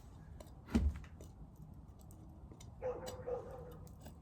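Small clicks and one sharper knock about a second in, from handling a wooden hive frame, with a brief low hum about three seconds in.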